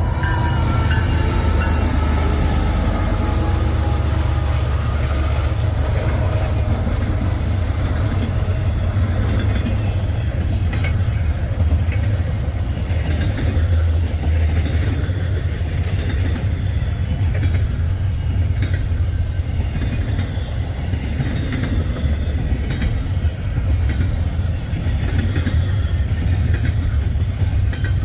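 Freight train passing close by with a steady, loud low rumble. In the first second or two the horn's last note trails off, falling in pitch. The cars then roll past with repeated wheel clicks over the rail joints.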